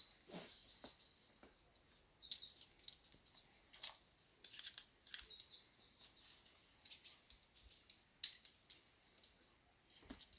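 Faint, scattered bird chirps, with a few short sharp clicks between them.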